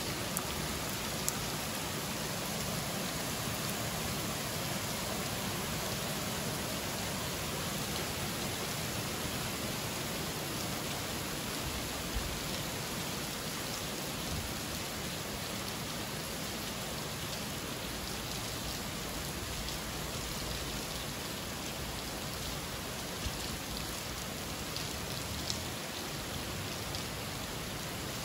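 Steady summer rain falling, an even hiss with a few sharper ticks now and then.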